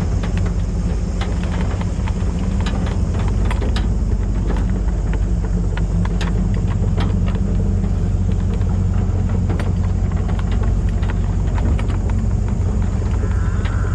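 A vehicle engine running steadily with a low, even hum, with scattered clicks and knocks over it.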